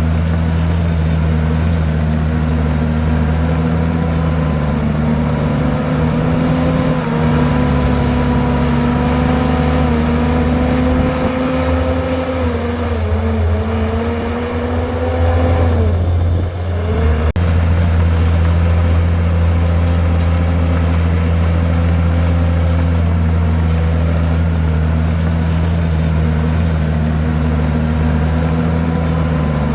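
Komatsu bulldozer's diesel engine running steadily. About halfway through, its engine speed sags, dips sharply for a moment, then picks back up and holds steady.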